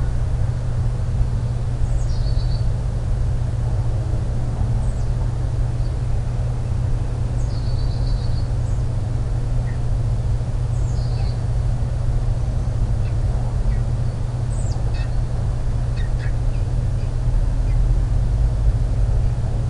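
Short, high bird chirps, scattered and some in quick little clusters, over a steady low hum.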